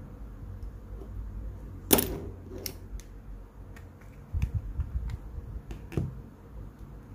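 Small sharp clicks and taps of repair work on an iPhone 4s being taken apart: one loud click about two seconds in, then a scattering of lighter ticks over low handling noise.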